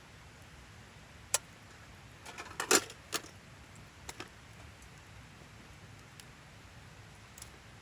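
A few scattered sharp clicks and clinks over a faint steady background: one about a second in, a quick cluster of them around three seconds in that is the loudest, then a pair of light clicks a second later.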